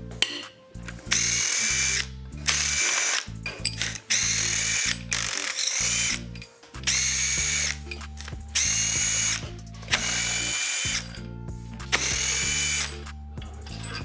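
Cordless power tool whining in about seven or eight short bursts of roughly a second each, spinning out the original cylinder-head bolts of a Mercedes OM642 V6 diesel.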